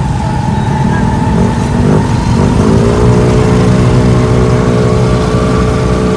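A motor vehicle driving: steady engine and road rumble, joined about two and a half seconds in by a steady pitched drone.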